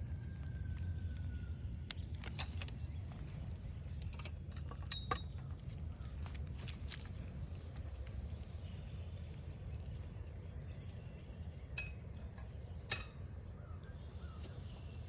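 Footsteps along a forest trail, with scattered light clicks and clinks over a steady low rumble. A faint bird whistle falls in pitch near the start.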